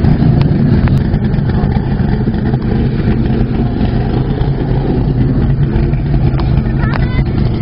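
A car engine running at a steady idle, loud, with a low even tone.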